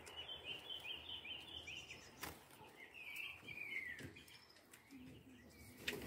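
Faint high bird chirps: a quick run of short chirps in the first second, then a longer call that falls in pitch about three to four seconds in. A couple of sharp clicks, the loudest just before the end.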